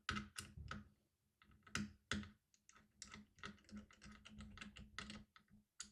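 Faint, irregular run of small metallic clicks and ticks as a tiny M.2 screw is handled and driven in with a small screwdriver to hold an NVMe SSD on a motherboard.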